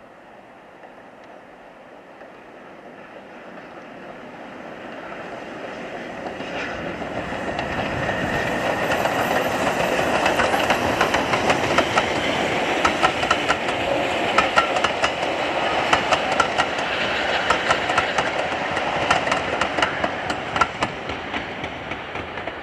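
Steam-hauled train passing close by: its noise builds over several seconds as it approaches, then the wheels click rapidly over the rail joints as the carriages go past. The sound cuts off suddenly at the end.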